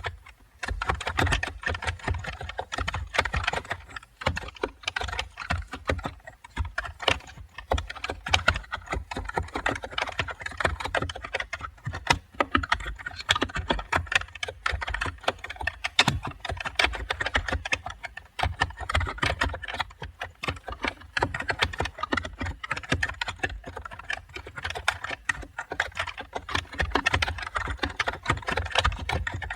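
Typing on a computer keyboard: a continuous fast run of key clicks, with brief pauses about four seconds in and again past the middle.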